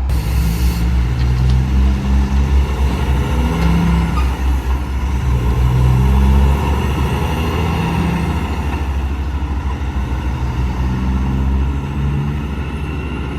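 A heavy truck's engine running as it passes by, a deep steady hum that builds to its loudest about halfway through and then fades. A short hiss sounds at the very start.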